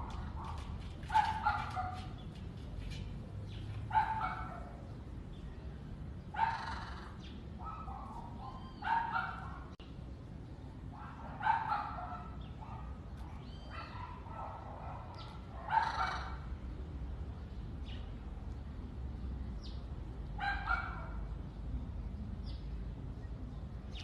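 An animal giving short calls, about eight of them, repeated every two to five seconds over a faint steady background.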